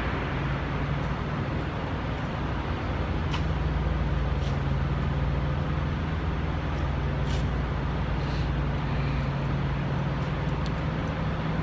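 Idling diesel semi-truck engines: a steady, unbroken low drone with a constant hum.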